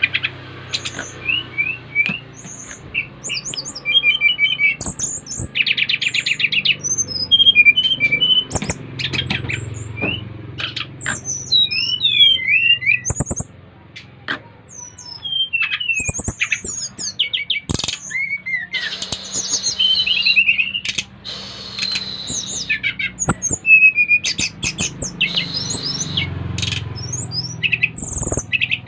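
SRDC songbirds singing in a lively, varied run of short whistled notes, quick rising and falling slurs and chattering trills, with a fast trill about six seconds in and scattered sharp clicks between phrases. One bird in full song is setting others off to sing along.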